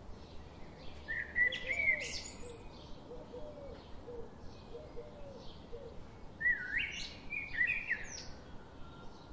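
Birds chirping, with a burst of quick calls about a second in and another about six and a half seconds in, and fainter short calls between.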